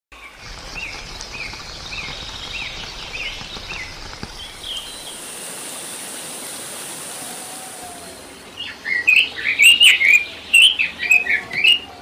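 Songbirds singing: a run of short, evenly repeated rising chirps for the first few seconds over a steady background hiss, then a loud, rapid, jumbled song of varied notes in the last few seconds.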